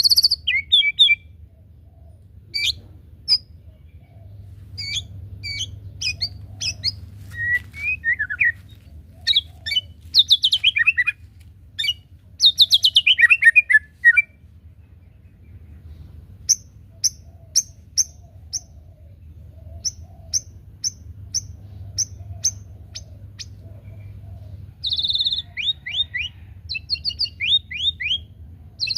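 White-rumped shama (murai batu) singing: a varied song of short phrases of whistles, fast trills and falling sweeps, broken by brief pauses. A faint steady low hum runs underneath.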